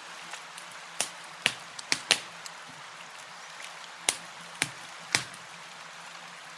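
Campfire wood crackling: about seven sharp, irregular pops, several close together in the first two seconds, over a steady soft hiss.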